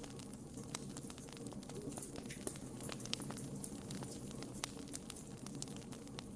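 Wood fire burning in a fireplace: a steady low rumble of flames with frequent sharp crackles and pops from the burning wood, scattered irregularly throughout.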